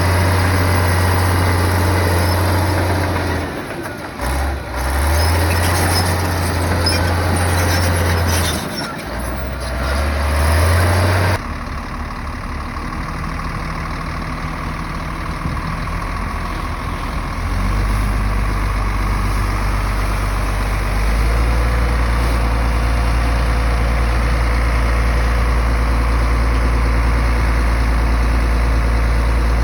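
Heavy bulldozer diesel engine running under load, with clattering and grinding over it for the first third. The sound changes abruptly about 11 seconds in, and the engine speeds up in steps later on.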